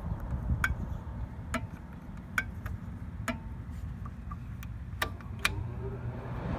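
A steady low machine hum with sharp, irregular ticks about once a second.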